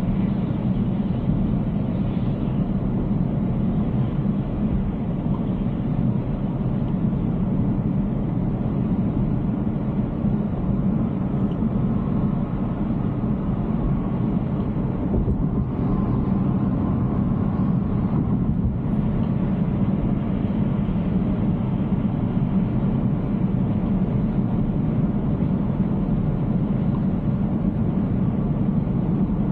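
Steady road and tyre noise heard from inside a Tesla's cabin while it drives, a constant low rumble with no engine note.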